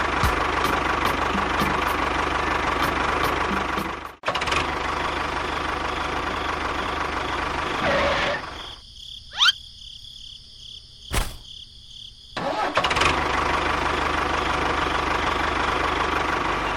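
Small mini-tractor engine running steadily. About halfway through it drops away for a few seconds, during which a quick rising whistle and a sharp click are heard, and then it resumes.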